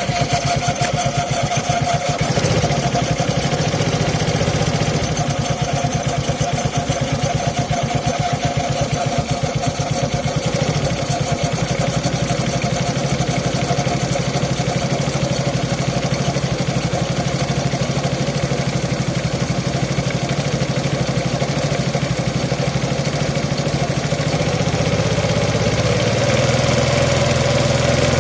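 Suzuki Access 125 scooter's single-cylinder four-stroke engine idling steadily just after a cold start, with the extra noise that the owner puts down to the CVT and a mechanic to the timing chain. The engine note changes slightly near the end.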